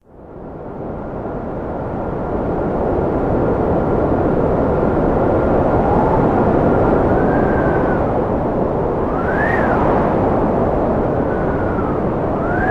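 Strong cold wind blowing: a steady deep rush with a thin whistle that later swoops up and down in pitch, fading in from silence over the first two seconds.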